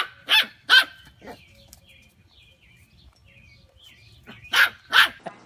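Sharp dog-like barks: three in quick succession, then a pause with faint high chirps, then two more near the end.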